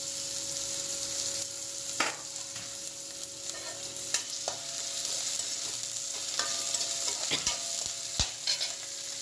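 Chopped onion, ginger and dried red chillies sizzling in hot oil in a metal kadai as a tempering, with a steady hiss. A metal slotted spatula stirs them, scraping and knocking against the pan several times.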